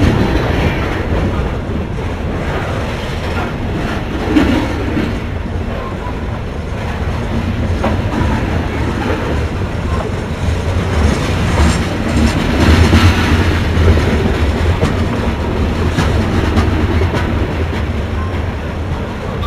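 Railcars rolling by on the track, wheels clacking over the rail joints in a steady run, a little louder about twelve seconds in.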